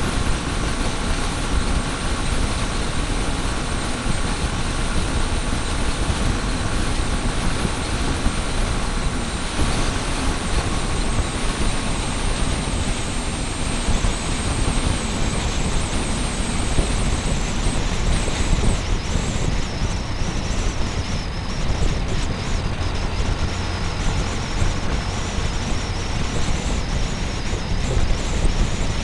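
Motorcycle running on the road, its engine mixed with a steady rush of wind and road noise, heard through a small camera strapped to the bike.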